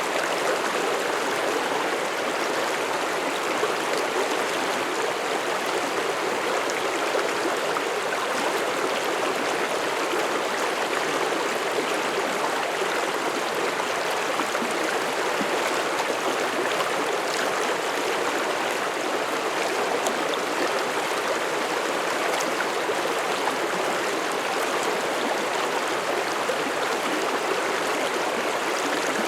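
A mountain stream flowing over rocks: steady rushing and babbling water with no breaks or changes.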